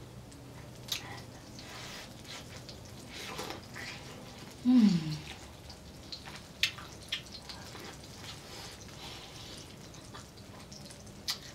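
Close-up wet chewing and mouth clicks of a person eating corn on the cob, with scattered sharp smacks. A short falling 'mmm' hum about five seconds in is the loudest sound.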